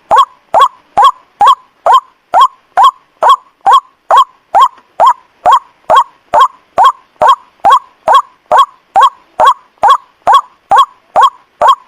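White-breasted waterhen calling: a short croaking note repeated over and over in an even rhythm, a little over twice a second.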